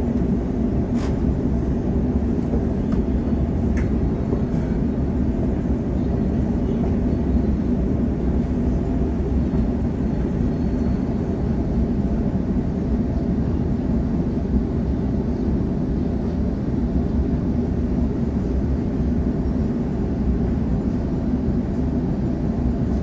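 Suburban passenger train running, heard from inside the carriage: a steady low rumble of wheels and running gear on the track.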